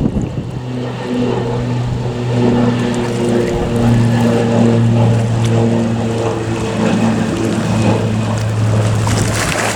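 A steady engine drone, a low hum with a few overtones, over wind noise, swelling slightly in the middle.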